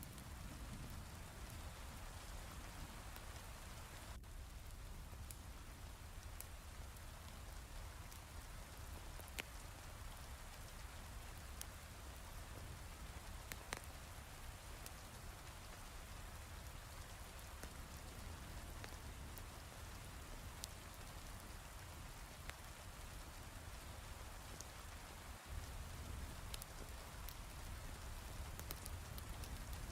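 Heavy rain falling steadily, with a low rumble underneath and scattered sharp crackles from a wood fire.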